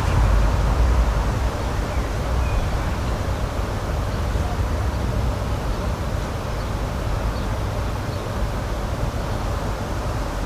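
Steady outdoor ambient rushing noise with a strong deep rumble. A faint high bird chirp comes in once or twice.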